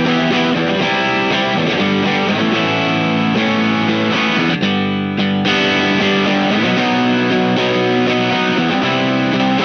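Electric guitar on single-coil pickups (a Fender Aerodyne Special Telecaster) played through a Visual Sound Jekyll & Hyde V1 dual overdrive/distortion pedal. Driven, distorted chords ring on, with a short break about five seconds in.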